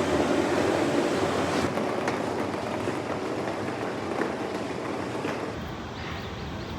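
Steady rushing noise of an airliner cabin in flight, slowly fading, with a change in its character about five and a half seconds in.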